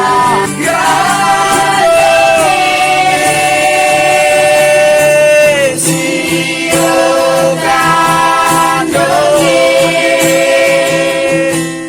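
A student singing a slow song in long, held notes that slide down at their ends, over a steady musical backing.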